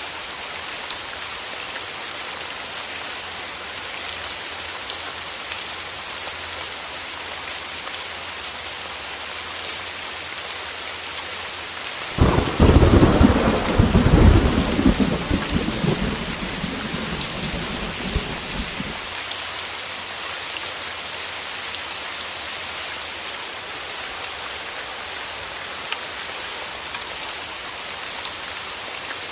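Heavy rain falling steadily, with one loud clap of thunder about twelve seconds in that rumbles on for some six seconds before dying away.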